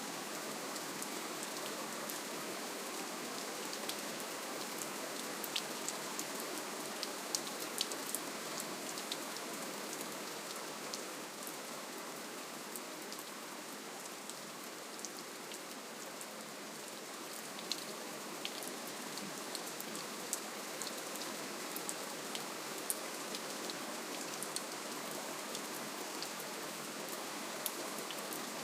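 Steady rainfall, an even hiss with many individual drops ticking sharply on a surface.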